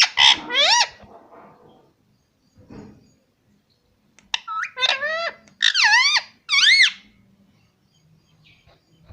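Pet parrot calling: a burst of high, shrill calls right at the start, then a run of sliding calls, each rising and falling in pitch, from about four to seven seconds in.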